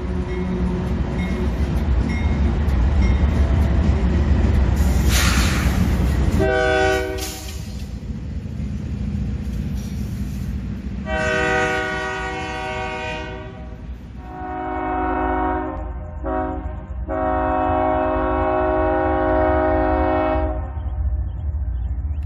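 Freight train passing close, a steady heavy rumble of locomotives and autorack cars with a brief hiss about five seconds in. Then a locomotive's multi-note air horn gives one short blast, and later sounds long, long, short, long: the grade-crossing warning.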